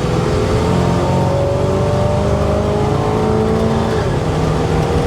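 1970 GMC K10 pickup's engine and exhaust running while driving, the pitch rising gently and easing off about four seconds in. The exhaust has a good sound with no drone.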